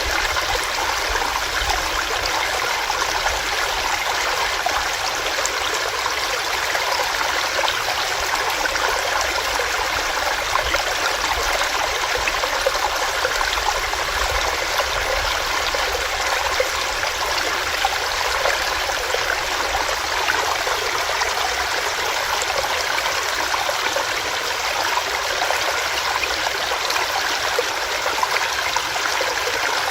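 A small stream running over rocks, a steady rush of water with gurgles and splashes.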